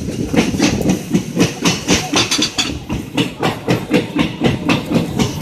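Passenger train coach running at speed, its wheels clattering quickly and evenly over the rail joints above a steady rumble, heard from the open coach doorway.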